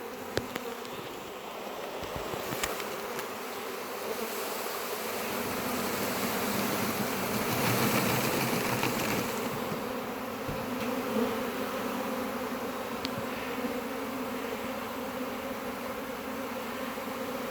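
A swarm of honey bees buzzing in a dense, steady hum that swells around the middle, just after being shaken off their cluster into a box and taking to the air.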